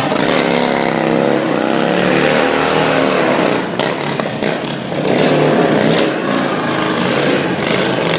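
Cruiser motorcycle engine revving hard, its pitch swinging up and down again and again, with a short easing-off about halfway through.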